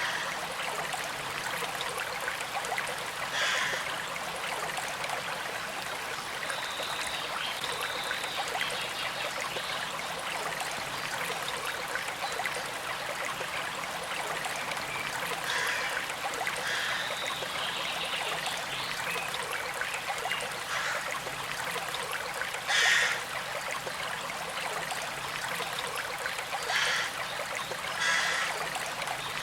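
Small creek trickling and flowing steadily, with a few brief louder sounds breaking through now and then, the loudest about two-thirds of the way through.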